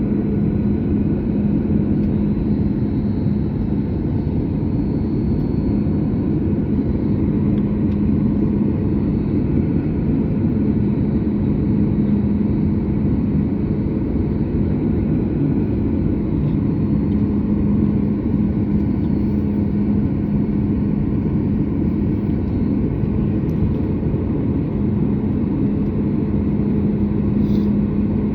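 Steady low rumble inside a Boeing 737 MAX 8 cabin on the ground before takeoff, from the CFM LEAP-1B engines at idle and the cabin air system, with a constant hum running through it.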